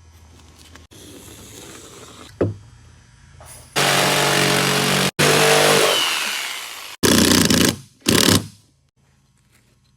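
Handheld power tool motor run in four short bursts, the longest winding down at its end, with a single knock shortly before the first burst.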